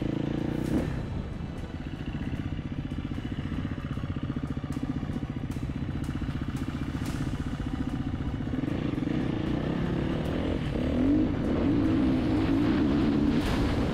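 Dirt bike engine heard from on board: it backs off about a second in and runs at low speed over rough ground with scattered knocks, then revs up and down as it picks up speed near the end, with wind rush growing.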